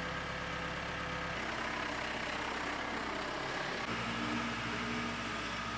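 An engine idling steadily, its hum shifting slightly in tone a couple of times.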